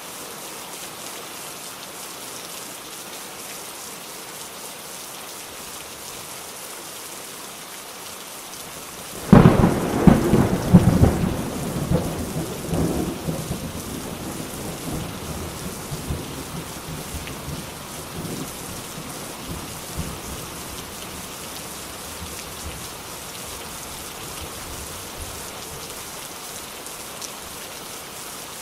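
Steady rain falling, with a sudden clap of thunder about nine seconds in that crackles and rumbles, then rolls away and fades over the next ten seconds or so while the rain goes on.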